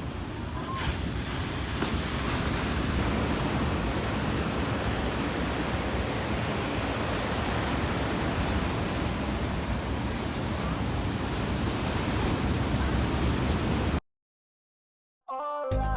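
Steady rush of ocean surf mixed with wind on the microphone, which cuts off abruptly about fourteen seconds in; after a moment of silence, music starts near the end.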